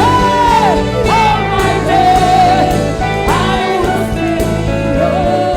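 Gospel worship music: a lead voice sings held, gliding notes over sustained keyboard chords and a steady beat.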